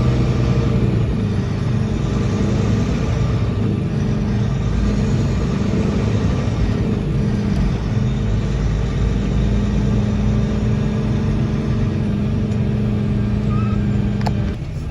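Semi-truck diesel engine running steadily, heard from inside the cab as an even low hum.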